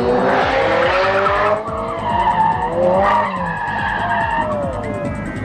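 Car tyres squealing and skidding, with a rush of tyre noise in the first second and a half, then wavering squeals that rise and fall in pitch.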